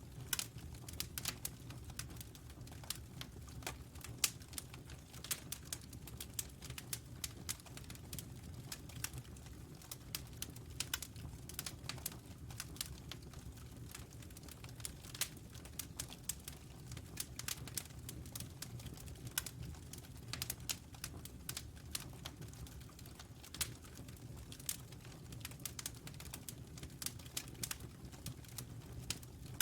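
Fire crackling with many small irregular pops over a steady low rumble.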